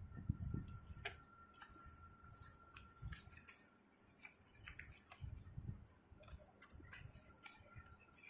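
Sheet of paper being handled and folded by hand, with faint, scattered crinkles and small clicks as it is creased.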